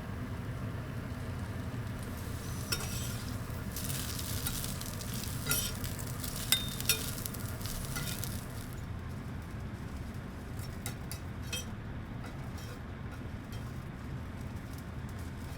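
Food sizzling on a small charcoal grill, a hiss with crackles and pops for a few seconds that then thins out to scattered pops, over a steady low hum.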